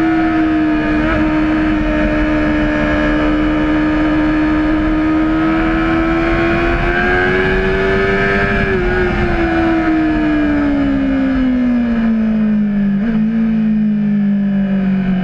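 Honda CBR600RR's inline-four engine running under the rider, its pitch climbing slowly for about eight seconds and then falling steadily as the bike slows, over a rush of wind.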